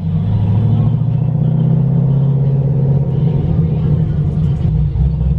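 A car engine rumbling at low revs in slow traffic, heard from inside the car; its pitch lifts slightly about a second in and eases back near the end.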